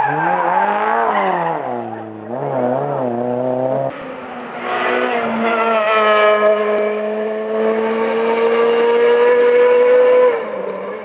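Rally car engines at full throttle. The revs first rise and fall through gear changes and lifts. Then, after an abrupt change, the engine pulls hard in one long climb in pitch for about six seconds, and cuts off sharply near the end.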